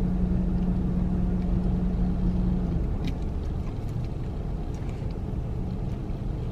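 Car engine running steadily with a low rumble, heard from inside a parked car, with a steady hum that stops about three seconds in and a few faint clicks after it.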